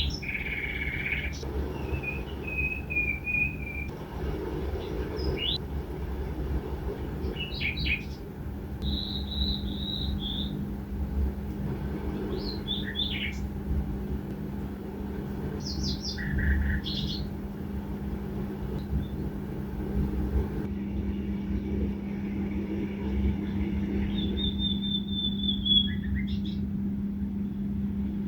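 Small birds chirping, with short tweets and a few brief trilled notes scattered throughout, over a steady low hum and rumble.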